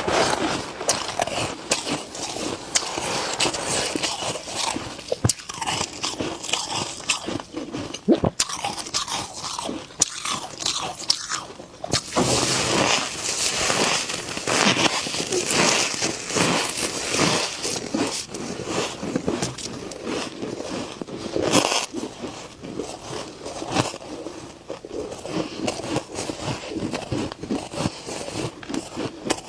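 Freezer frost being bitten and chewed: a continuous run of crisp crunches and crackles.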